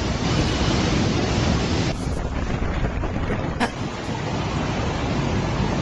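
Typhoon wind blowing hard across the microphone, a steady rushing noise whose upper hiss drops away abruptly about two seconds in, with one sharp knock about three and a half seconds in.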